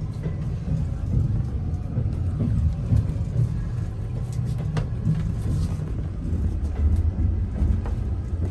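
Passenger train car running along the track: a steady low rumble with scattered clicks and knocks, heard inside the car's toilet compartment.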